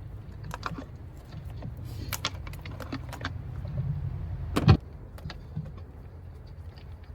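Light metallic clicks and clinks of tools and engine parts being handled, with one loud sharp clank a little past halfway, over a low steady rumble.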